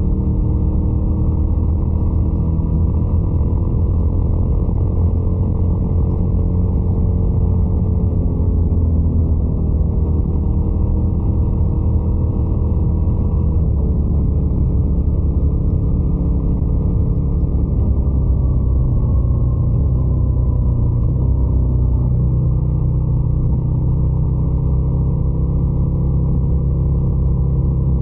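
Motorcycle engine running continuously with a steady, loud drone, its pitch drifting slowly up and down; the low tone shifts about three-quarters of the way through.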